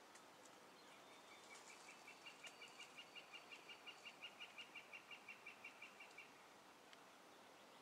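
A small songbird calling faintly: a steady series of short, clear notes, about five a second, that swells and then fades over about five seconds.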